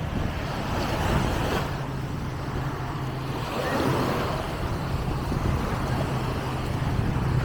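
Small waves washing onto a sandy beach, swelling twice, over a steady low engine hum and wind on the microphone.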